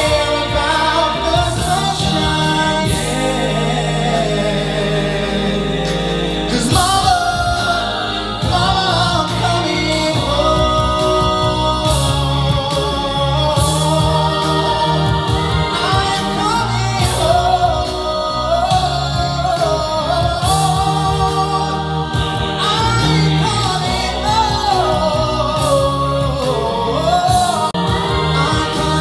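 A vocal group singing in harmony: several voices carry a moving melody over a steady low bass line, in an a cappella style.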